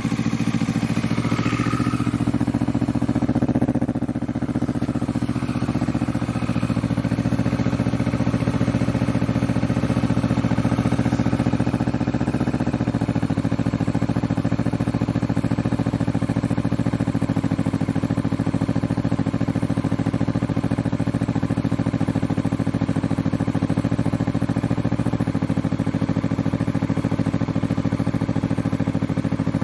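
Kawasaki Vulcan S 649 cc parallel-twin engine idling steadily just after a cold start, breathing through a newly fitted budget aftermarket full exhaust system.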